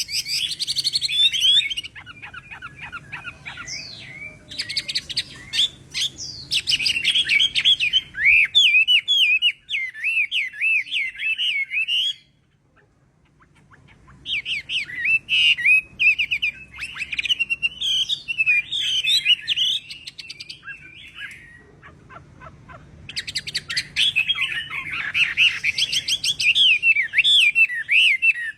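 Chinese hwamei singing: long phrases of rapid, varied whistled notes and trills, broken by a short pause about halfway through and another shorter one later.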